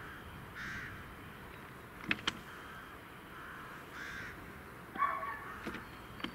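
Birds calling with harsh caws, several times over. Two sharp clicks come close together about two seconds in.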